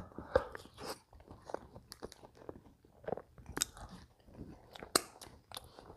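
Close-miked chewing of food: a series of small, irregular wet clicks and light crunches, with a sharper crunch about five seconds in.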